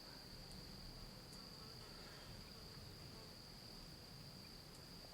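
Faint, steady high-pitched insect chorus, one unbroken shrill trill.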